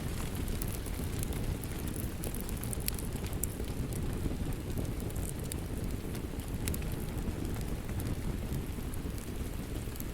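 Steady rain with a wood fire crackling, sharp pops and snaps scattered over a continuous low rumbling hiss.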